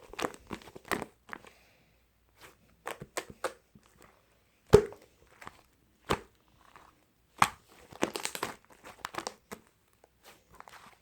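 Irregular crinkling and rustling with sharp clicks, as of something being handled up close, the loudest a single sharp click about five seconds in.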